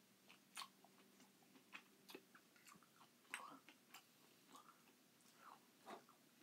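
Quiet, wet chewing and lip smacks of someone eating crushed pineapple, with irregular small clicks from a plastic spoon in the can.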